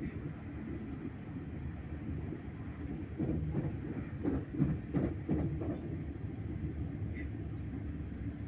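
Train running with a steady low rumble, with a few brief louder sounds about halfway through.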